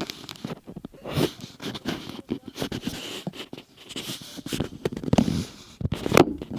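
Hands working slime and its materials: irregular squishing and handling noises broken by many short clicks.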